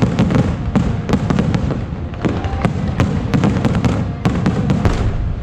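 Aerial fireworks bursting: a rapid, irregular run of sharp crackles over deep booms.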